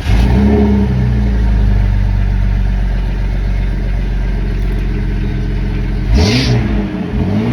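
Car engine catching and settling into a steady idle, then revved up and back down briefly about six seconds in, with a second short rev near the end.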